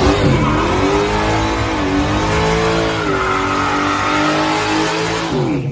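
Race car engine at high revs: the pitch sweeps up, then holds high with a slowly wavering pitch for several seconds, drops near the end and cuts off suddenly.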